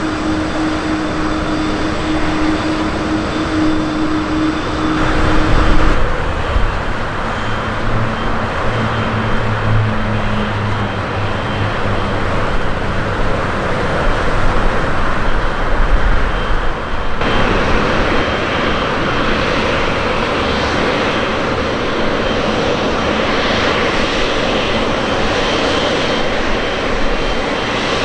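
Jet airliner engines running, a steady loud rush of engine noise with a held tone in the first few seconds. The sound changes abruptly twice, about a fifth and about three-fifths of the way through.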